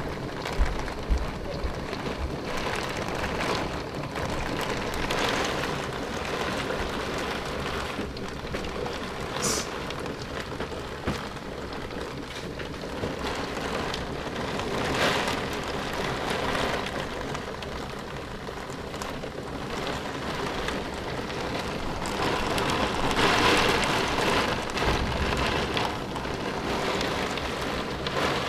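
Heavy thunderstorm downpour: a dense, steady rush of pouring rain that swells louder several times, most strongly a little past two-thirds of the way through.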